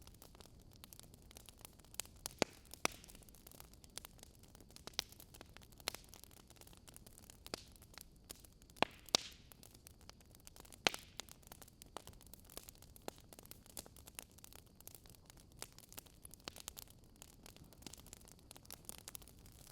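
Wood fire crackling in a fireplace: irregular sharp pops and snaps of burning logs over a faint low hiss.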